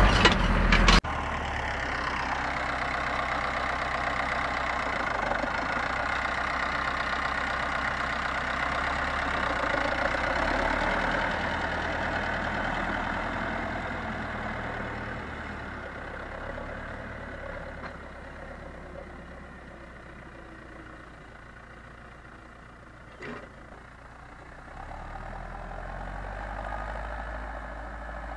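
Zetor 7245 tractor's four-cylinder diesel engine running steadily while ploughing. It grows fainter through the middle and louder again near the end.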